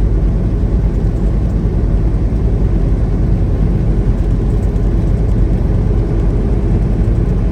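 Semi-truck engine and road noise while driving at speed: a steady low rumble with no change in pace.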